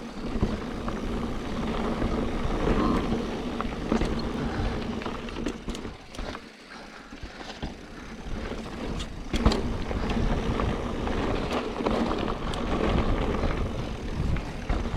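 Mountain bike descending a loose dirt trail at speed: wind rushing over the camera microphone, tyres skidding on loose dirt, and the bike rattling over bumps. It goes quieter for about a second just past the middle.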